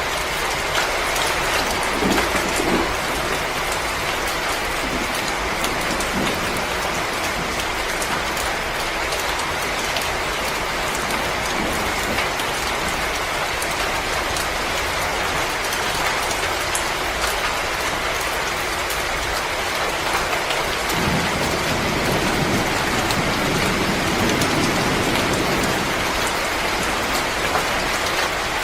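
Wood fire crackling in a fireplace: a dense, steady hiss of small crackles, with a few louder pops about two seconds in and a low swell of fire noise later on.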